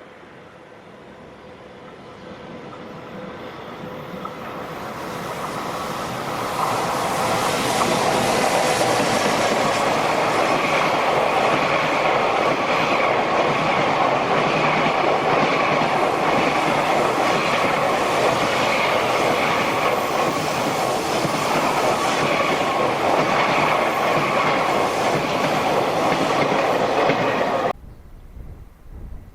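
A JR Freight train on the Tōkaidō Main Line passing close by: it builds up over several seconds as it approaches, then the wagons go by in a steady, loud rumble of wheels clattering over the rail joints, cutting off suddenly near the end.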